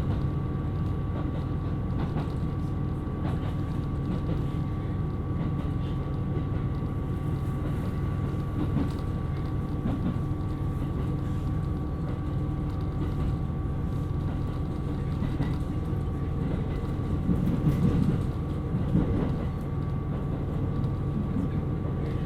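KiHa 127 series diesel railcar running: a steady low rumble of engine and wheels on rail with a steady whine over it, growing a little louder briefly near the end.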